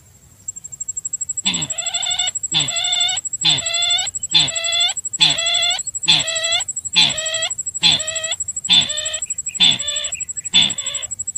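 Lure recording of the call of the sintar bird, an Indonesian wild bird: about a dozen short, harsh calls repeated evenly, a little under one a second, with a thin steady high whine beneath them.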